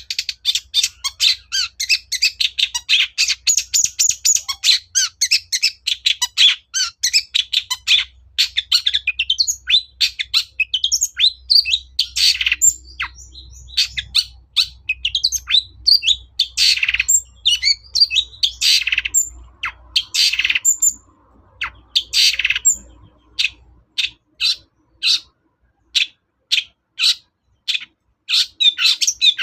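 Long-tailed shrike singing. The first several seconds are a rapid, dense chatter of high notes. After that come harsher notes spaced further apart, then scattered short chips near the end.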